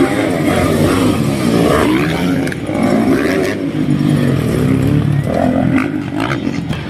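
Several motocross dirt bike engines revving together, their pitches rising and falling and overlapping.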